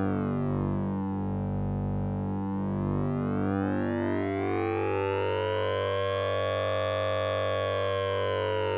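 Sync and ring-modulated synthesizer tone from the Orange Vocoder plugin: a steady low drone under a buzzy band of overtones that slowly sweeps down, bottoming out about two seconds in, then rises again to a peak near the end.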